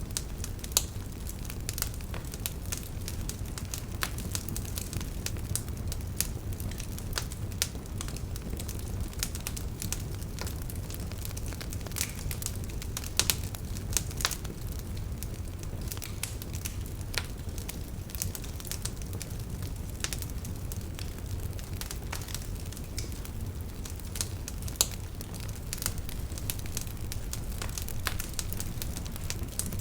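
Campfire crackling, with irregular sharp pops and snaps over a steady low rumble, a few louder pops standing out.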